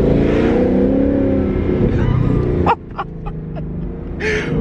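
Ford Mustang GT's 5.0 L V8 through a new aftermarket exhaust that still has the stock mufflers, heard from inside the car. It pulls under power, then the throttle closes about two and a half seconds in and the exhaust crackles and pops several times on the overrun. The engine picks up again near the end.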